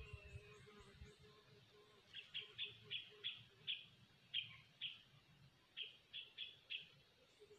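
Bird calling: a run of short, sharp chirps, about two or three a second, starting about two seconds in. Under them a lower, rapid pulsing note repeats, plainest in the first couple of seconds.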